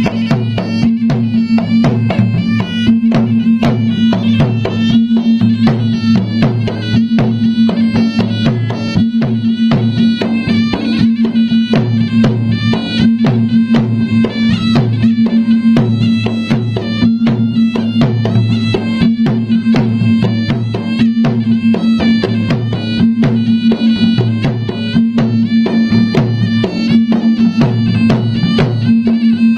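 Traditional Bugis-Makassar gendang drumming: dense, rapid drum strokes under a reedy wind melody that steps between notes over a steady low drone.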